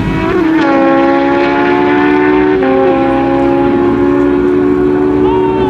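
Super Stock drag motorcycle engines wailing at high revs during a pass. The pitch is high and steady, stepping down about half a second in and again about two and a half seconds in as the bikes shift up.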